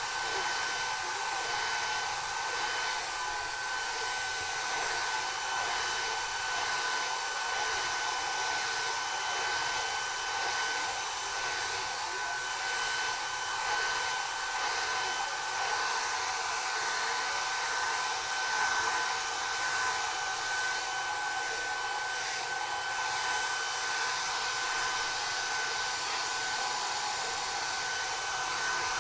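Hand-held hair dryer blowing steadily, a constant airy rush with a thin high whine from the motor.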